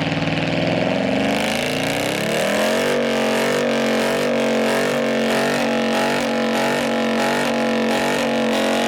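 Car engine revving up, its note climbing for about two seconds and then held steady at high revs with slight regular wavering.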